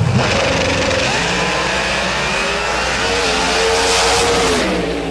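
Car engine revving hard, its pitch climbing and holding high, then dropping back about four and a half seconds in.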